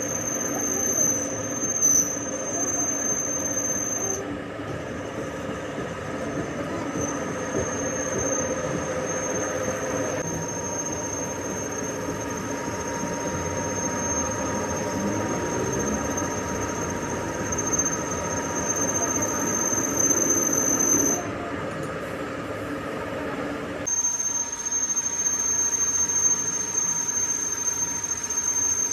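Machine tool cutting steel, with a steady high-pitched squeal over a mechanical hum. The squeal drops out briefly twice, the second time for about three seconds, then returns.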